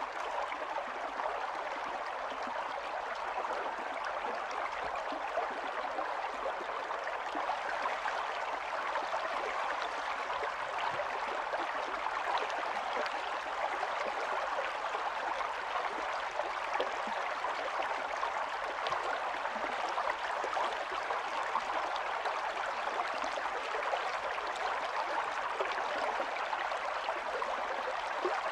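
Small stream running steadily, water babbling and trickling over stones.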